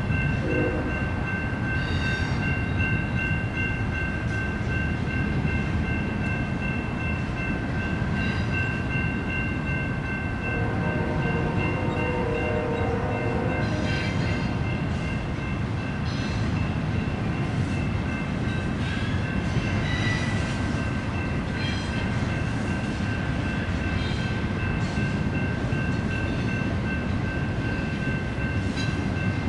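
A BNSF intermodal freight train rolling steadily past: a continuous rumble of container cars on the rails with scattered clanks. Several steady high-pitched tones ring over it the whole time.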